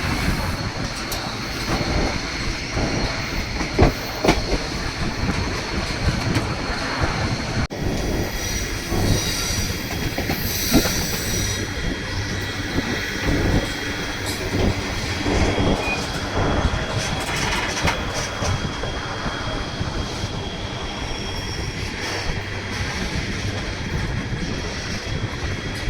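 Narrow-gauge train in motion on the White Pass & Yukon Route: wheels running on the rails with a continuous rumble, and a thin, high, steady squeal of the wheels whose pitch shifts slightly after a brief break about eight seconds in.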